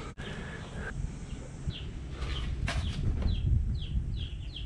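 Birds chirping: a run of short, falling chirps, two or three a second, starting about two seconds in, over a low rumble.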